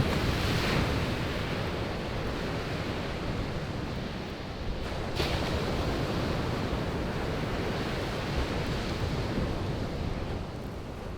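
Sea waves washing onto a beach, a steady surf noise that swells and eases, with a single sharp crackle from burning firewood about five seconds in.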